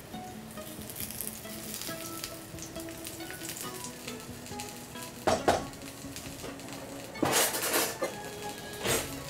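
Eggplant slices frying in oil in a pan, a steady sizzle that flares up loudly three times: about five seconds in, for about a second near seven seconds, and briefly just before the end.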